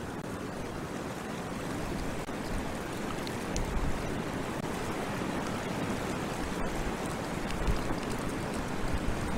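Wind gusting over the nest camera's microphone: a steady rush with a few low buffeting thumps.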